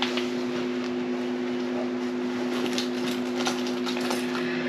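Steady background hum holding two steady tones, with faint light clicks and rustles of wires being handled.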